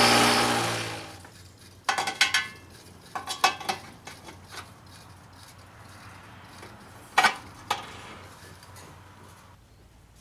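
A power tool spinning down at the start, then metal parts clinking and clanking on a workbench: a cluster about two seconds in, more a second later, and a sharp clank about seven seconds in.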